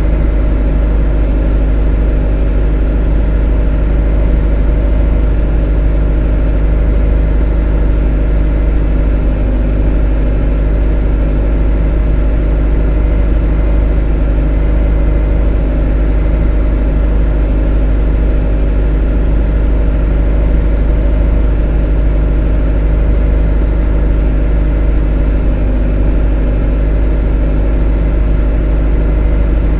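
A motor running steadily and unchanging: a strong deep hum with several steady higher tones above it.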